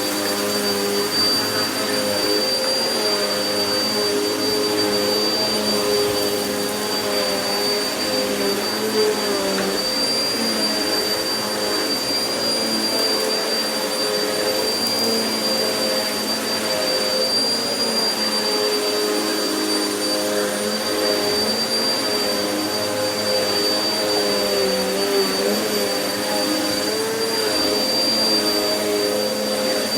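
Vacuum cleaner running steadily over carpet, its motor giving a constant high whine under a lower hum whose pitch wavers slightly as it is pushed back and forth.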